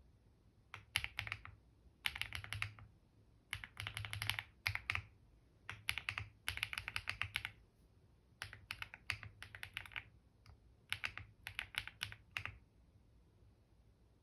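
Computer keyboard typing in quick runs of key clicks, broken by short pauses, that stop near the end.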